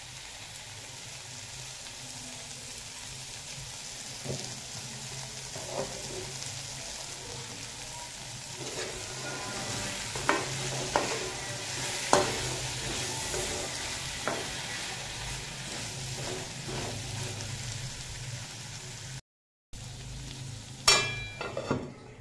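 Bitter gourd and potatoes frying in oil in a metal kadai, sizzling steadily, while a metal spatula scrapes and knocks against the pan in the middle stretch. Near the end a metal lid is set on the pan with one loud ringing clank.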